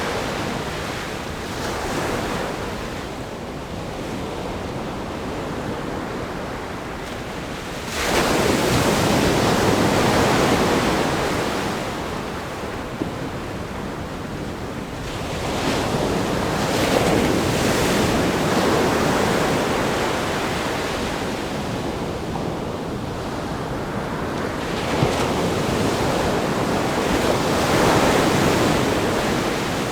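Ocean waves crashing on a rock groin, a steady wash of surf that swells and ebbs. A wave breaks suddenly and loudly about eight seconds in, with further swells in the middle and near the end.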